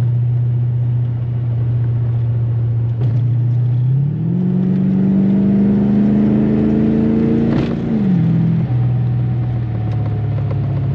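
1986 Chevrolet Corvette C4's V8 engine heard from inside the cabin on the move. The engine runs at a steady cruise, then its revs climb smoothly for about four seconds and drop back sharply near the end, with road noise underneath.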